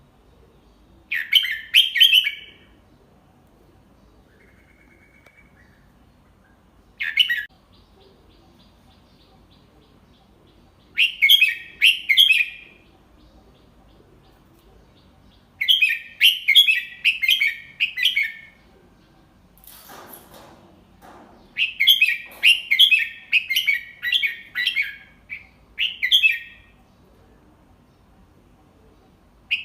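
Red-whiskered bulbul singing bouts of quick, chirpy phrases, five of them with pauses between. Fanciers call this song type 'double three', sung slowly and clearly as a model for young birds to copy. A faint low rustle comes about twenty seconds in.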